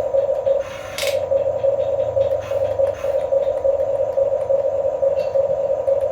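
Whine of a radio-controlled construction model's electric motor and plastic gearbox running steadily, with a sharp click or scrape about a second in.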